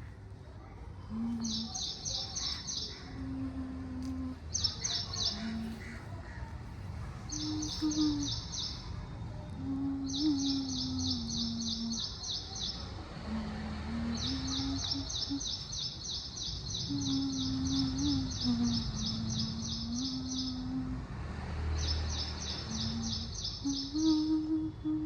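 A bird chirping in rapid runs of high, evenly repeated notes, about six or seven a second, each run lasting one to several seconds with short gaps between. Underneath, a low tone moves between a few held pitches.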